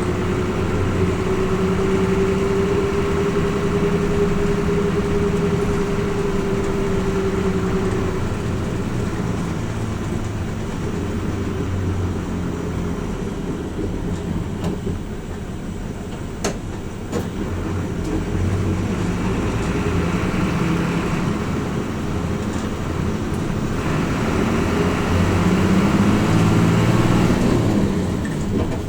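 Cabin running sound of a Hino Rainbow RJ (P-RJ172BA) diesel bus on the move. The engine runs under load, with a steady whine over the first several seconds. It eases off in the middle, with two sharp clicks, then builds again as the bus picks up speed.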